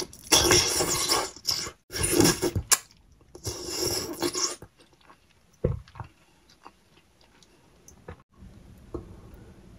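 A person biting into and chewing soft ripe papaya. Three loud bursts of mouth noise in the first four and a half seconds, then quieter chewing with small clicks.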